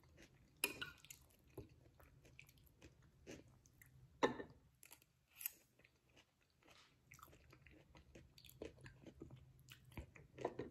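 Faint, wet chewing of a mouthful of vegan shepherd's pie, broken by a handful of sharp clicks from a metal spoon, the loudest about a second in and about four seconds in.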